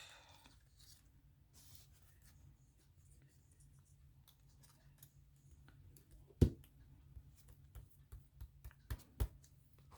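Paper cutouts quietly handled and shuffled on a collage page, with one sharp tap about six seconds in and two lighter taps about nine seconds in, over a low steady hum.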